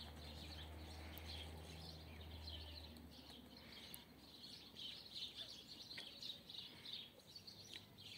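Faint background chirping of small birds, many short irregular calls overlapping, with a low hum that stops about three seconds in.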